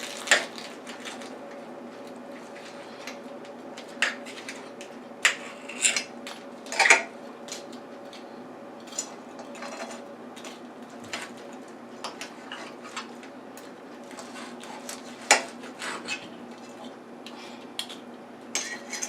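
Knife and fork clinking, knocking and scraping on a plate in irregular strikes while a cooked Cornish hen is cut into pieces, over a faint steady hum.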